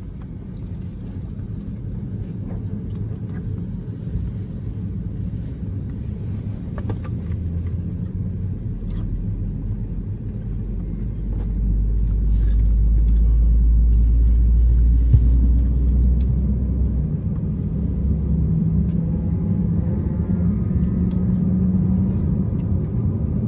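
Low, steady cabin rumble inside an Airbus A321 on the ground, swelling for several seconds about halfway through before easing off again.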